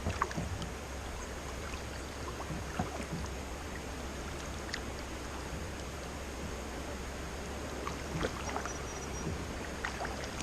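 Steady rush of river rapids running through a rocky gorge, with a few faint paddle splashes from a kayak.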